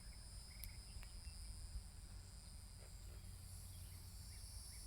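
Faint, steady high-pitched insect chorus, several constant tones held without a break, over a low rumble.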